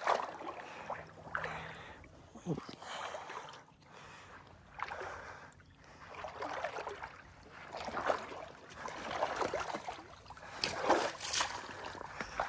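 Shallow pond water splashing and sloshing in irregular bursts while a hooked bass is fought and brought in by an angler wading in the water.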